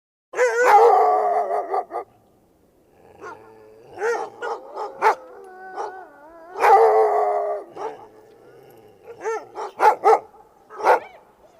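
A dog howling and barking: two drawn-out howls, one at the start and one about halfway, with short barks and yips between and after them.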